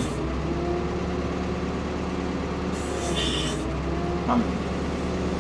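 Ford P-42 excavator's diesel engine running steadily under hydraulic work, with a brief higher hissing noise about three seconds in and a single short knock about a second later.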